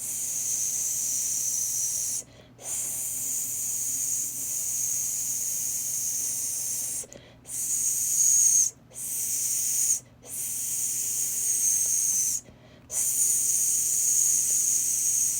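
A person hissing a long steady 'sss' into a microphone to drive a voice-controlled mouse pointer, broken by five brief pauses. Each pause makes the pointer change direction.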